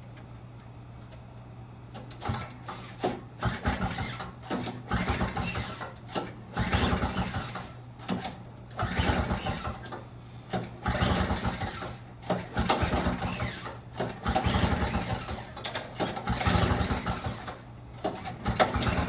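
Toro CCR 2450 snowblower's small two-stroke engine being pull-started with its recoil rope about nine times, each pull a second-long burst of cranking roughly every two seconds, without catching. The owner takes the failure to start for a flooded carburetor.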